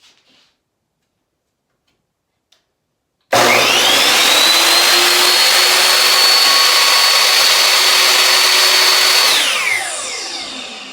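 Ryobi miter saw's motor switched on about three seconds in, its whine rising quickly to full speed and running steadily and loudly for about six seconds, then switched off and spinning down with a falling whine.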